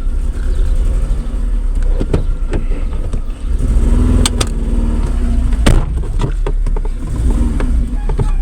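Seat Ibiza II 1.4 16v petrol engine running as the car is moved in reverse, with a steady low rumble and a few sharp knocks. This is the engine for which the OBD reader had reported a cylinder 3 misfire.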